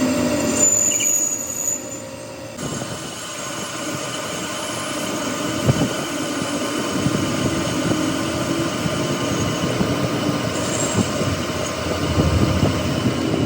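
Workshop machinery running, a steady mechanical whine with a rumble underneath, changing abruptly about two and a half seconds in.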